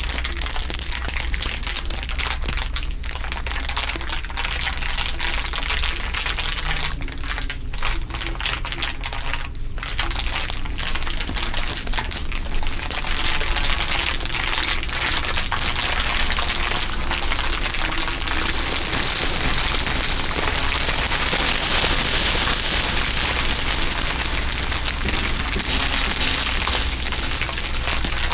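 Layers of crinkling, a dense continuous crackle made of many small clicks, growing busier and brighter about two-thirds of the way through, with a steady low hum underneath.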